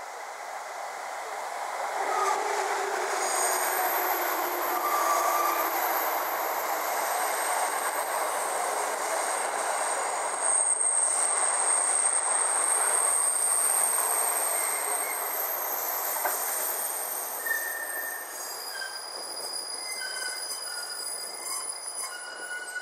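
JR Kyushu 787 series electric train running past on steel rails, a steady rumble with thin, high wheel squeal over it. The noise builds about two seconds in and fades away over the last few seconds.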